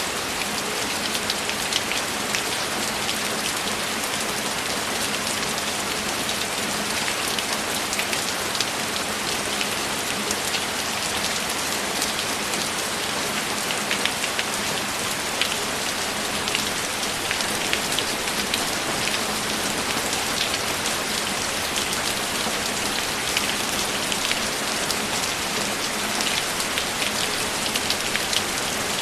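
Steady rain falling, an even hiss with many small scattered drop ticks on a surface.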